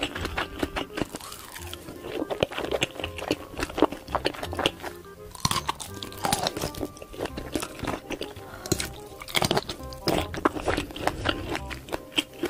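Close-miked biting and chewing of sausages, a dense run of wet clicks and crunches from the mouth, over background music with a repeating low pulse.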